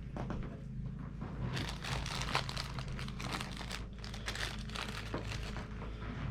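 Packaging of new dash bulbs being handled and opened: irregular crinkling and rustling with small clicks, busiest from about a second and a half in, over a steady low hum.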